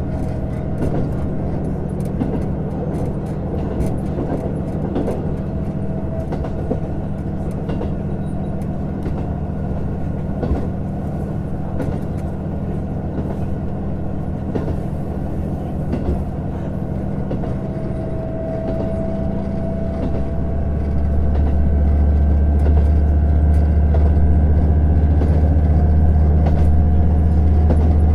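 Running sound of a JR Hokkaido KiHa 150 diesel railcar: a steady diesel engine drone and rail rumble, with scattered clicks. About 20 seconds in the engine's low drone grows clearly louder and holds, while a whine climbs slowly in pitch.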